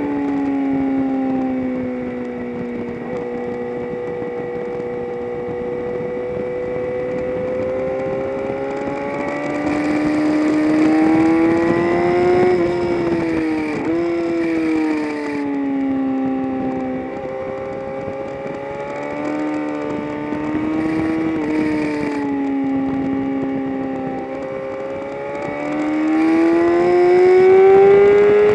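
Onboard engine sound of a vehicle lapping a race track. The engine pitch climbs under acceleration and falls away under braking several times, with a sudden break in pitch about halfway through as a gear changes.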